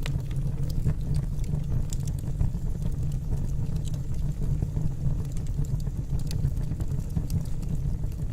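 Wood logs burning in a fireplace: a steady low rumble of the flames with irregular small crackles and pops from the wood.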